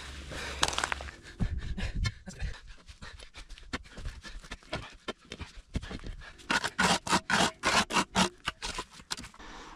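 A person breathing hard in quick panting breaths, about four a second, after heaving heavy stones. Earlier, a few low thumps and scrapes of stone being shifted.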